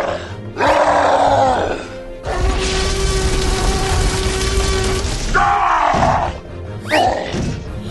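Background music with cartoon sound effects: a falling, groaning voice effect about a second in and again past the middle, a long steady droning tone between them, and a quick rising whistle-like glide near the end.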